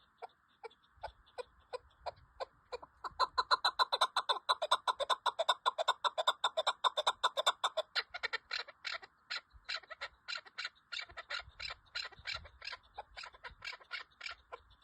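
Chukar partridge calling: a long run of short, rapidly repeated clucking notes that builds to its fastest and loudest from about three to eight seconds in, then carries on a little more loosely.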